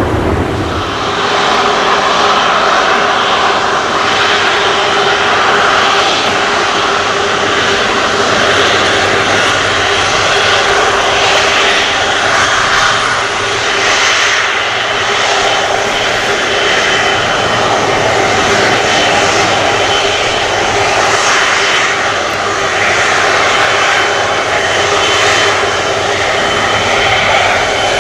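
Airbus A330-343 airliner's twin Rolls-Royce Trent 700 turbofans running loud and steady, a jet rush with a steady whine over it.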